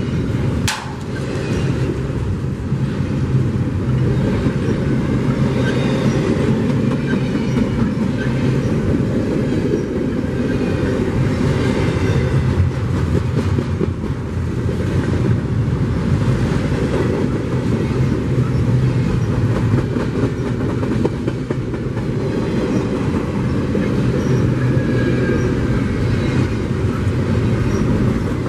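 CSX double-stack intermodal container train's cars rolling past: a steady loud rumble of steel wheels on rail with clickety-clack, and faint high wheel squeals now and then.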